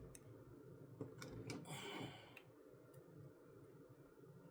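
Faint, scattered clicks of plastic LEGO pieces being handled and pressed together, with a short soft rustle about two seconds in.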